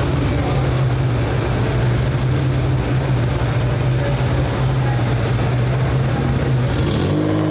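Car engine running at a steady speed, a constant low hum, with the pitch starting to rise and fall near the end.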